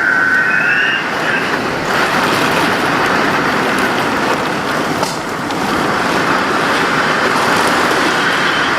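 Tropical thunderstorm: a steady loud rush of heavy rain and strong wind, with a high whistling tone in the first second.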